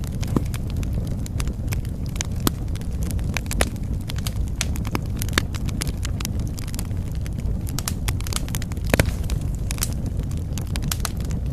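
Wood fire in a fireplace crackling, with frequent sharp snaps and pops over a steady low rumble of the flames. A few louder pops stand out, the loudest about nine seconds in.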